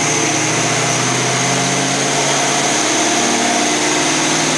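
540-cubic-inch big-block Chevrolet V8 in a 1970 Camaro running at light throttle on a chassis dyno, holding steady around 2,300 rpm.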